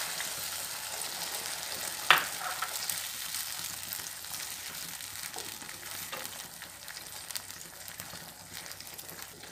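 Vegetables and sauce sizzling in a non-stick wok while a wooden spatula stirs them, with a sharp knock about two seconds in. The sizzle fades steadily as a cornflour-and-water slurry mixes into the pan.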